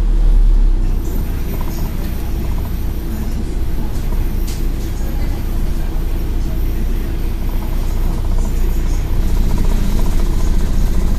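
Scania N113 bus's diesel engine running under way, heard from inside the passenger cabin as a steady low drone. The engine note builds a little over the last few seconds.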